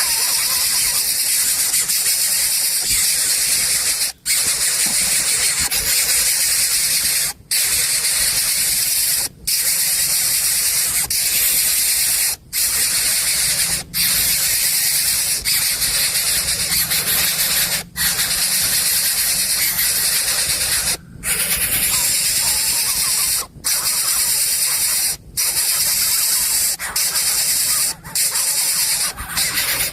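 Coucal chick giving a continuous hissing begging call, broken by short pauses every one to three seconds, still noisy after being fed.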